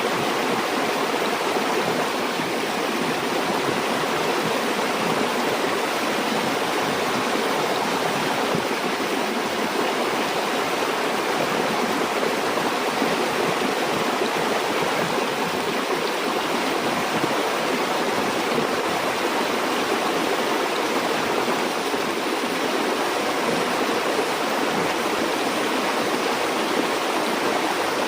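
Stream water flowing and gurgling over rocks, a steady even rush.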